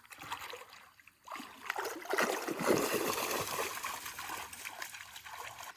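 Creek water splashing and sloshing as a person wades in. It starts about a second in, is loudest in the middle and eases off near the end.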